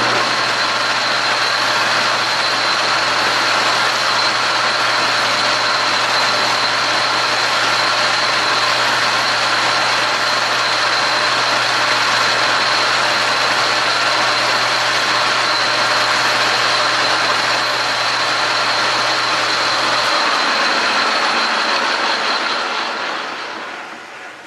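Metal lathe running, with a lathe file held against the spinning metal stock: a loud, steady scraping hiss over the machine's hum. The hum stops about 20 seconds in and the noise dies away over the next few seconds as the lathe coasts down.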